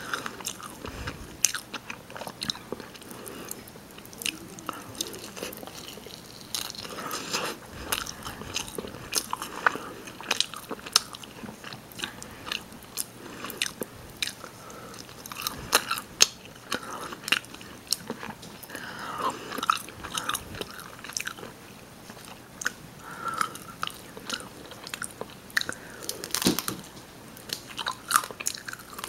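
Close-miked ASMR eating: a person biting and chewing rotisserie chicken, with many irregular sharp mouth clicks.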